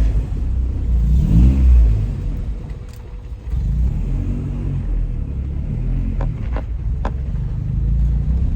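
Honda Civic Type R (EK9) engine revving and pulling as the car is driven, with pitch rising and falling through the gears and a brief easing off about three seconds in. A few sharp clicks come near the end.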